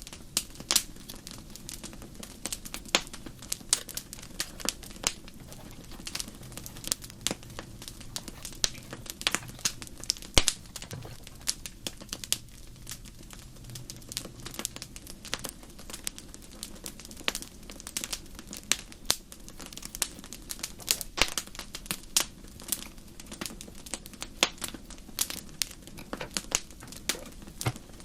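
Wood fire crackling: irregular sharp pops and snaps, several a second, over a faint low steady rumble.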